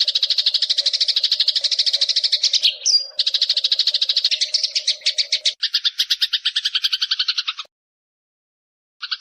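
Eurasian tree sparrow giving a long, rapid chattering run of sharp repeated notes, well over ten a second. A short whistled note breaks in about three seconds in, the chatter shifts to a lower, two-pitched pattern about halfway, and it stops for about a second near the end before starting again.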